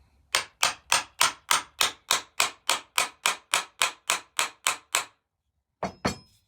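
A hammer tapping a wooden mallet head down onto its handle to seat it: about seventeen quick, evenly spaced strikes, roughly three a second, then a short pause and two more blows near the end.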